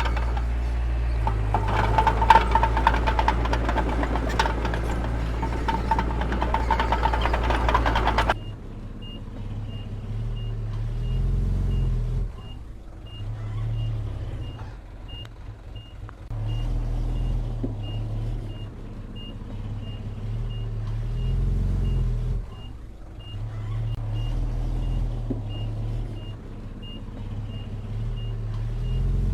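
Diesel engine of heavy construction machinery working under load, changing abruptly about eight seconds in. After that the engine rises and falls in a repeating cycle while a reversing alarm beeps steadily, about twice a second.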